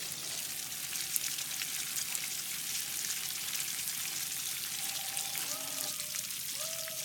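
Running water, a steady hiss with fine crackle.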